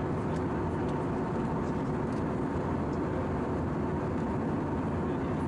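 Steady cabin noise inside an Airbus A319-111 in flight: the engines and rushing airflow make an even roar, with a faint steady hum running through it.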